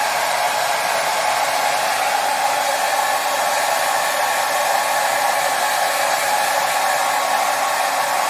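Hair dryer running steadily: an even, unbroken rush of air with a faint motor hum, strongest in the middle register. It is played as a soothing noise for babies, likened to the sounds heard in the womb.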